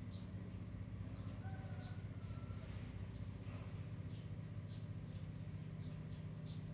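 Small birds chirping in the background: short, high, falling chirps, several a second at irregular intervals, over a steady low hum.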